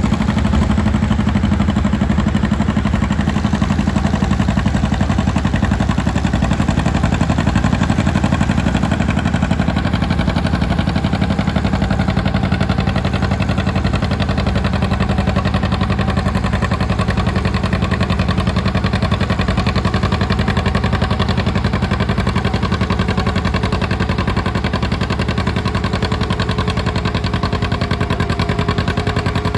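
Antique farm tractor engine running steadily and loudly, with an even, rapid firing rhythm.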